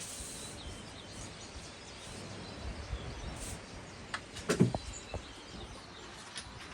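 Steady background noise with a few faint bird chirps, broken about four and a half seconds in by a short cluster of clicks and a knock.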